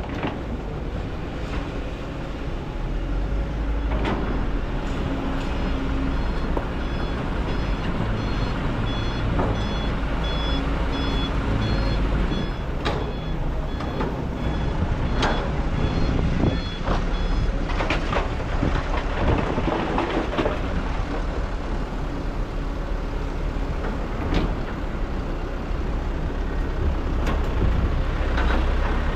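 Kobelco excavator's diesel engine running steadily under load while digging sand, with scattered knocks and scrapes of the bucket and machine. For about ten seconds in the middle, an electronic reversing or travel alarm beeps about once a second.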